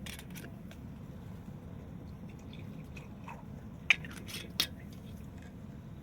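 Wood fire crackling: scattered small snaps over a steady low rumble of the flames, with two sharp pops about four and four and a half seconds in.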